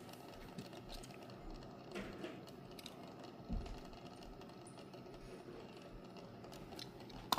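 Faint, scattered light clicks and taps of diecast model cars being handled, with a soft thump about three and a half seconds in.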